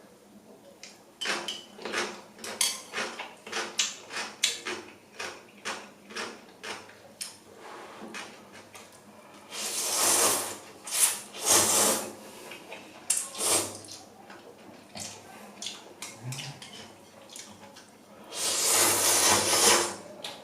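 Close-up eating sounds: a quick run of crisp chewing crunches, as of pickled radish (danmuji), then loud slurps of ramen noodles, two about ten seconds in and a long one near the end.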